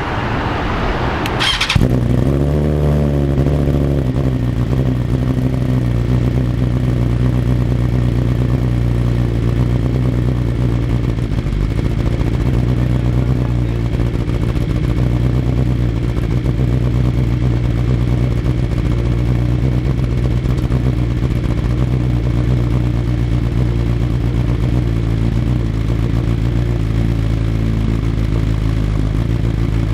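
BMW S1000RR inline-four motorcycle engine starting about two seconds in, then settling into a steady idle.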